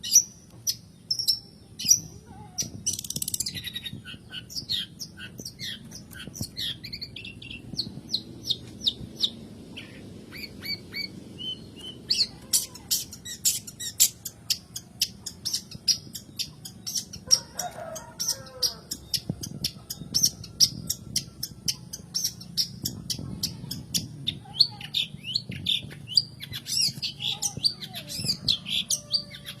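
Long-tailed shrike (cendet) calling and singing in sharp, high, chattering notes. A few loud separate calls come first, then from about halfway a fast run of short notes. A lower, rougher call cuts in briefly in the middle.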